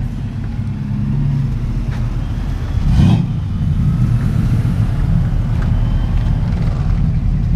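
A car engine idling steadily, with one short rev about three seconds in.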